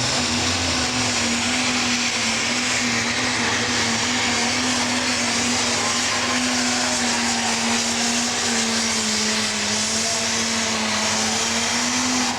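A pro stock pulling tractor's turbocharged diesel engine running flat out under full load through a pull. It is a loud, steady, high-revving drone whose pitch sags slightly late in the run.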